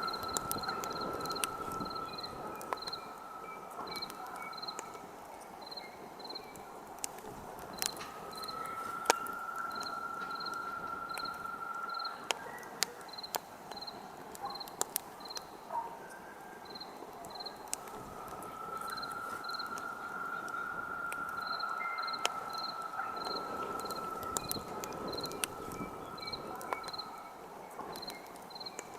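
Campfire crackling with scattered sharp pops, over crickets chirping about twice a second and a steady high insect trill that fades out and comes back twice.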